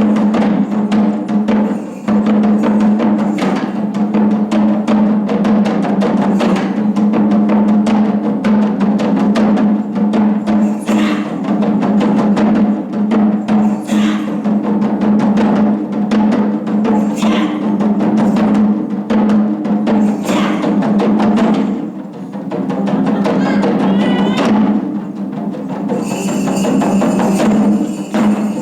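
Japanese taiko drum ensemble playing a fast, dense rhythm of strikes over a steady low hum. The drumming thins briefly about 22 seconds in, and a bright high ringing joins near the end.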